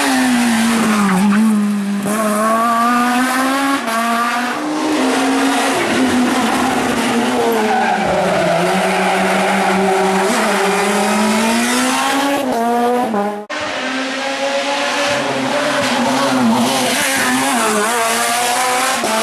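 Rally car engine at full racing speed, revving up and dropping back again and again through gear changes and corners, with tyre squeal. Everything cuts off abruptly about two-thirds of the way through, then another stretch of hard-revving engine follows.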